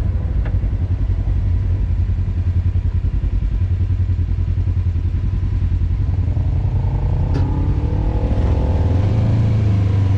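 Off-road vehicle engine running with a deep, pulsing low rumble, revving higher about two-thirds of the way through, with a sharp click near that point.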